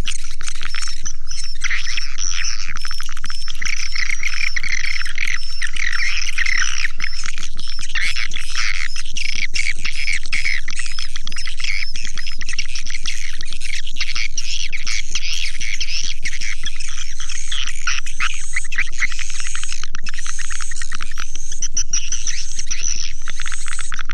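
Swiftlets calling: a dense, unbroken chatter of many overlapping high chirps and twitters at a steady level. It is the kind of swiftlet call recording that is played to lure swiftlets into a nesting house.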